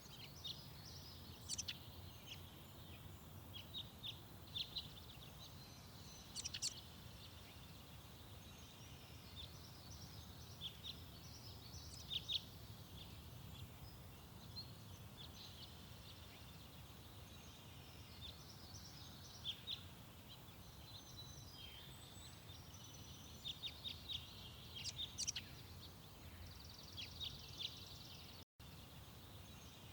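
Garden songbirds chirping and twittering in short, scattered calls and trills over a faint low background rumble. The sound drops out for a split second near the end.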